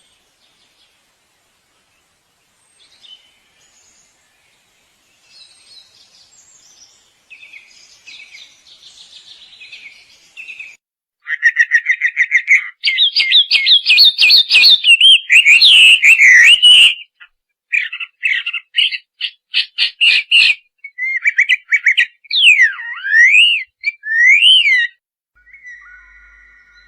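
Small bird singing: faint scattered chirps at first, then, about halfway through, a loud run of rapid trills and quickly repeated notes, ending in a few whistled notes that sweep up and down.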